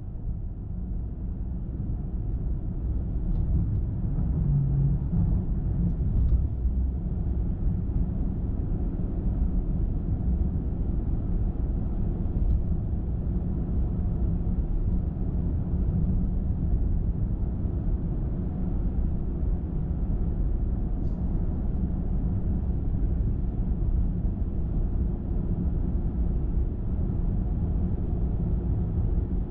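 Steady low rumble of a car driving along a road, tyre and engine noise, with a few faint brief ticks.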